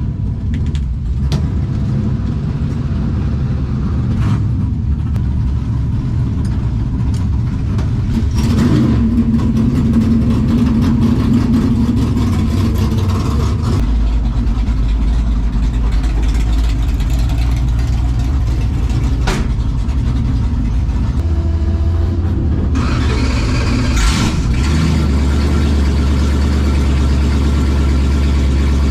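Engine of a Dodge HurriCrate-powered Plymouth Belvedere drag car running, a loud steady low drone. It deepens about halfway through and turns brighter and harsher about three-quarters of the way in.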